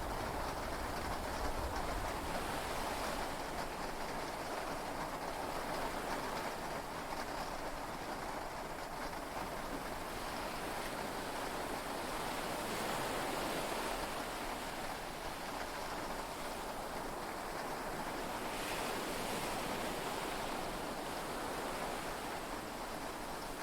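Steady heavy rain and sea waves heard from inside a yacht cabin: an even, unbroken wash of water noise. A low rumble, the tail of thunder, fades out in the first couple of seconds.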